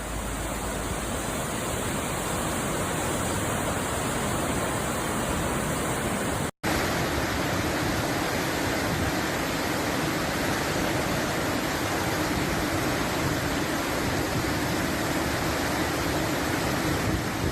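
Steady rush of floodwater, like a river in spate. The sound cuts out for an instant about six and a half seconds in, then the rushing goes on.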